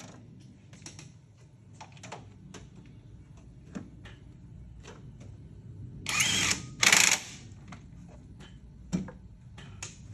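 Scattered clicks and clinks of hand tools on metal, with two loud short hissing bursts a little past the middle.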